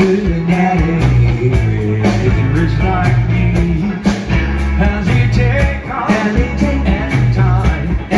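Live rock band playing loudly, with bass, drums and electric guitar in a rock and roll groove.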